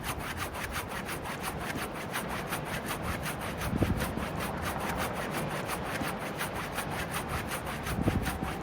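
Fast, even scraping strokes, about six a second, with a louder low thud about four seconds in and another near the end.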